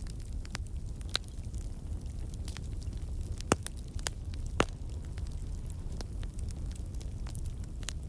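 Wood campfire burning: a steady low rumble of flame under scattered crackles and pops from the logs, two sharper pops a little past the middle. The pops come from water and sap in the wood escaping as steam.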